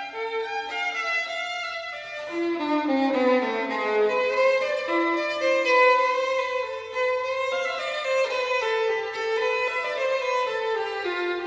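Background music: a solo violin playing a slow melody of held notes, with a downward slide about three to four seconds in.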